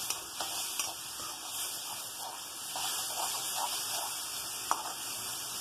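Chopped tomatoes frying in hot oil in a metal kadai, a steady sizzling hiss, with a single light knock of the spatula against the pan about three-quarters of the way through.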